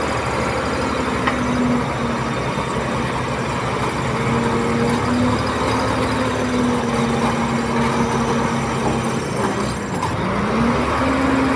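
Komatsu D31P bulldozer's diesel engine running steadily under work, with a whining tone over it. The pitch sags briefly about ten seconds in and climbs back.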